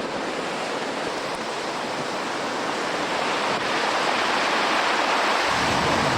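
Storm surf crashing and rushing ashore in a gale, a steady roar of water noise that swells louder about four seconds in. Near the end, wind buffets the microphone with a low rumble.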